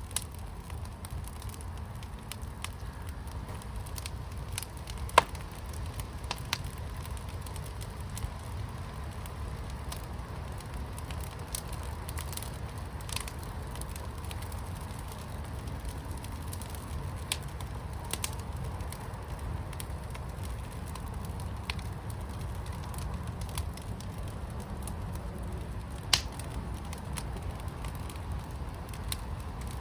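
Fire pit burning: a steady low rumble with scattered sharp crackles and pops, the loudest about five seconds in and another near the end.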